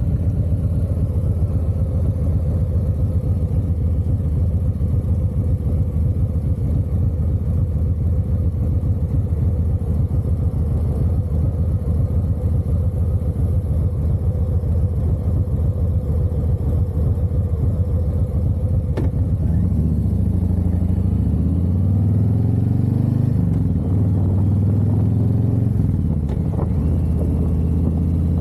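Harley-Davidson V-twin engine running as the motorcycle rides, steady at first; about two-thirds of the way in its pitch rises and falls several times as the bike accelerates through the gears.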